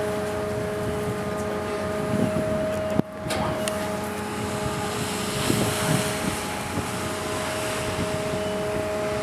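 MV Walla Walla's machinery droning with a steady hum over wind noise while the ferry comes in to dock. There is a sharp click and a brief drop in level about three seconds in.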